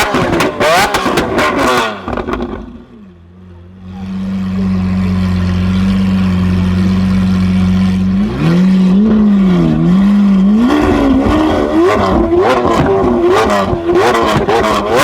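Lamborghini Aventador V12 through a loud aftermarket Capristo exhaust, being revved with crackles and pops. After a short drop it settles to a steady idle, then is blipped repeatedly so the pitch swings up and down, ending in more crackling on the overrun.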